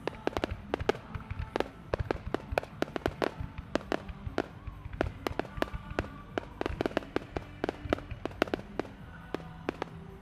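Aerial fireworks bursting in a rapid, irregular barrage of sharp bangs and crackles, several a second, over music playing. The bangs stop near the end.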